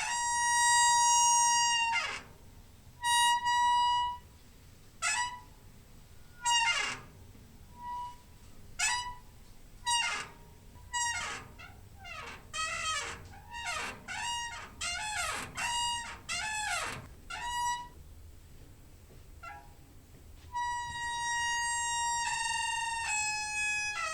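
Door hinge squeaking. It starts with long, steady squeaks, then gives a run of short squeaks that slide down in pitch, coming faster around the middle, and ends with more long squeaks near the end.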